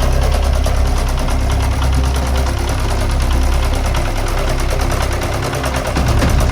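Tractor engine running steadily with a fast, even firing rhythm, slightly louder again near the end.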